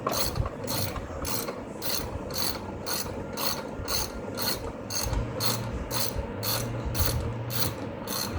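Hand socket ratchet clicking in a steady rhythm, about two to three ratcheting strokes a second, as a bolt is turned out on the engine.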